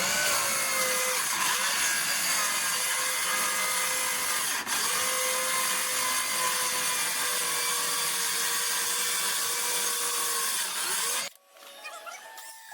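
Bauer 20V cordless 6.5-inch circular saw ripping through 1-inch-thick particle board: the motor's whine under load with the blade's hiss through the wood, steady for about eleven seconds with a brief dip a little under halfway. It cuts off suddenly near the end and a short chime-like music jingle begins.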